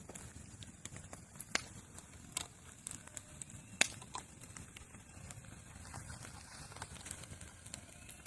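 Wood bonfire crackling, with irregular sharp pops, the loudest about a second and a half in and near four seconds in.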